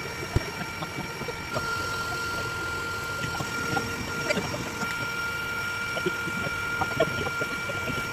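Steady hum of a mass of honey bees flying and buzzing around opened comb, with scattered small clicks and knocks from the comb being handled.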